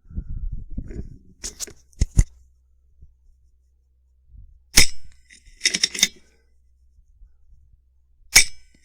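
Two shots from a suppressed FX Impact M3 PCP air rifle, one about halfway through and one near the end. Each sharp crack is followed about a second later by a quick run of metallic clicks as the side lever is cycled to load the next pellet. Early on there is a brief low rumble of wind on the microphone and a few light clicks.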